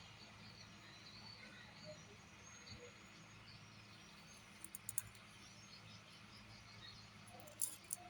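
Faint ambience: scattered small bird chirps over a low steady hum, with a few short sharp clicks about five seconds in and again near the end.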